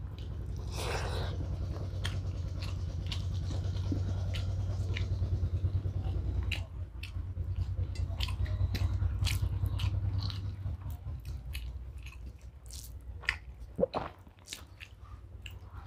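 A person chewing a mouthful of rice close to a clip-on microphone, with wet mouth clicks. The chewing is heaviest for the first ten seconds or so, then eases off to a few scattered clicks.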